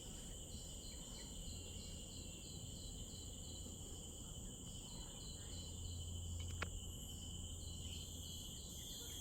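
Steady insect chorus: several continuous high-pitched drones with a fast, evenly repeating chirp over them, and a single faint click about six and a half seconds in.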